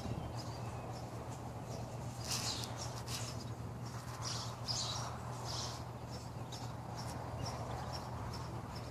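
Small birds chirping in short, repeated clusters over a steady low hum.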